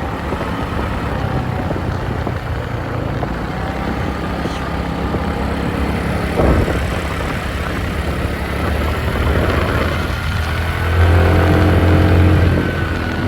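Motorbike engine running steadily while riding, under a haze of road and wind noise. About eleven seconds in a louder engine sound holds a steady pitch for a second or two, then falls back.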